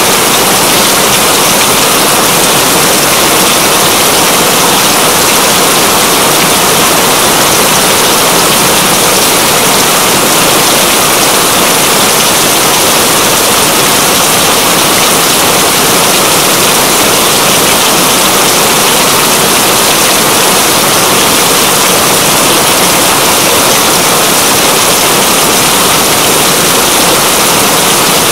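Steady heavy rain: a loud, even, dense hiss without let-up.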